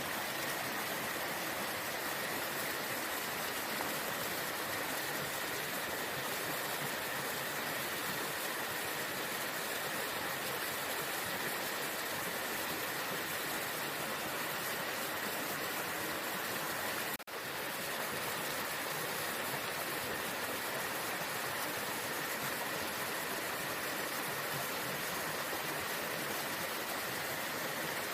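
Waterfall: steady rushing of falling water, with a momentary dropout about two-thirds of the way through.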